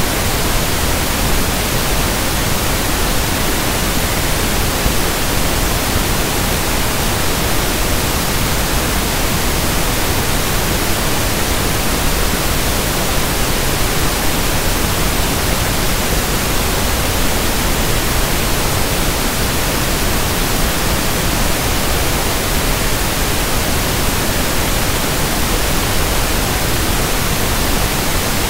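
Steady synthetic pink noise (1/f noise): an even, unchanging hiss across the whole range.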